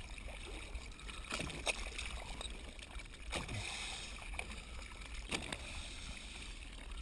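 Steady low rumble of wind and water around a dive boat at the surface, with about four sharp knocks, likely dive gear or the hull.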